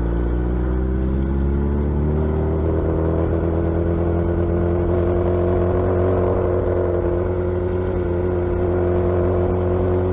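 Suzuki Hayabusa's inline-four engine running steadily while cruising, its pitch rising slightly over the first two or three seconds and then holding even.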